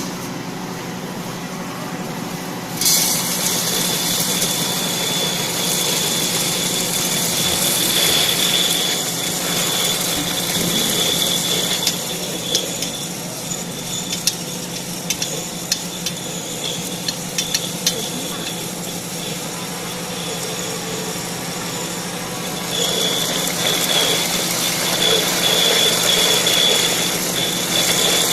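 Small electric peanut butter grinder running with a steady hum. A high whine and a noisy grinding layer set in suddenly about three seconds in, ease off in the middle with scattered clicks, and come back louder near the end.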